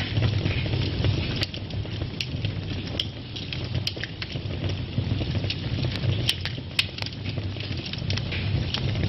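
Wood fire burning in a fireplace, crackling with sharp, irregular pops over a steady low rumble of the flames.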